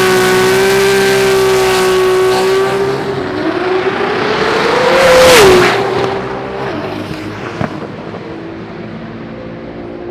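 Drag racing car's engine at high revs, holding one steady pitch, then loudest about five seconds in as it passes, when its pitch drops sharply. It then fades as the car moves off.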